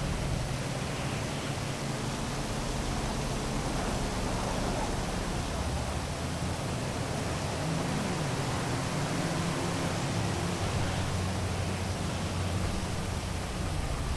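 Heavy rain falling steadily over a city, with a low hum of traffic engines underneath that shifts in pitch a few times.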